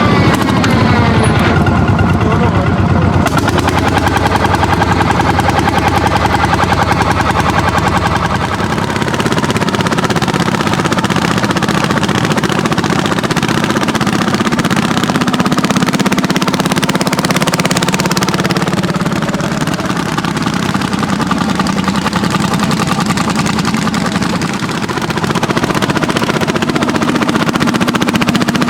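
Landini hot-bulb tractors' single-cylinder two-stroke engines running hard under plowing load, a rapid, steady stream of exhaust beats with the pitch sliding down briefly at the start.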